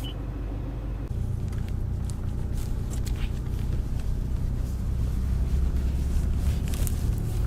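Low, steady rumble of a Toyota Land Cruiser Prado heard inside its cabin, getting louder about a second in, with a few light clicks.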